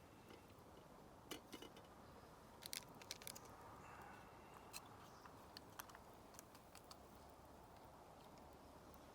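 Near silence with faint, sharp clicks and crackles scattered irregularly through it, most of them in the first two-thirds.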